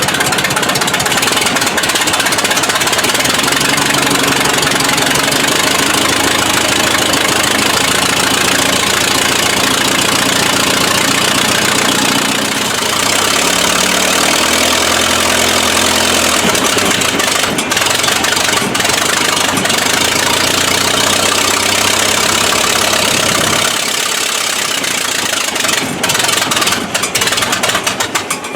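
A large engine running, its pitch shifting up and down as it is revved or loaded about halfway through, with a heavy mechanical clatter over it and a few sharp clicks near the end.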